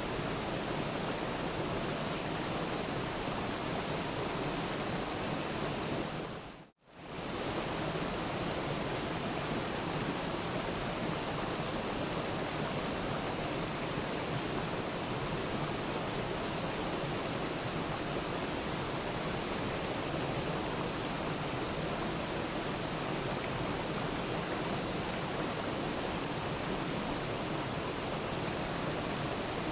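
Waterfall: a steady rush of falling water. The sound briefly fades out to silence and straight back in, about seven seconds in.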